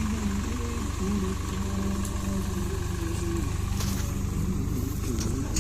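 Swaraj tractor's diesel engine running steadily with an even low rumble.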